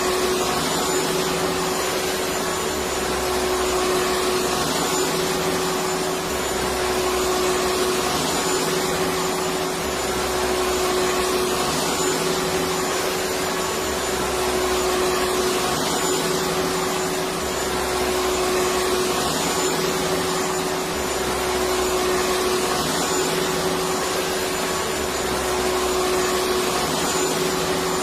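Electric vacuum cleaner running steadily: an even rush of air with a constant whine over it.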